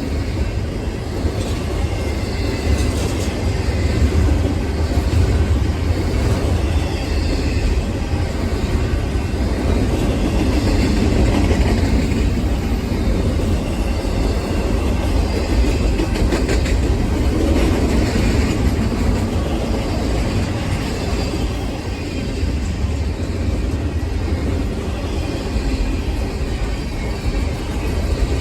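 Train rolling past: a steady, loud low rumble of railcars with wheel clatter on the rails.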